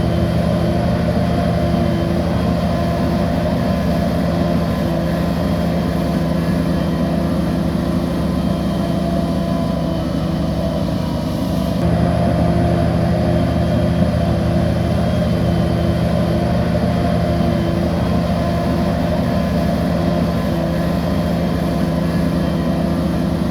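Bulldozer diesel engine running steadily; the note dips briefly about halfway through, then picks up slightly louder.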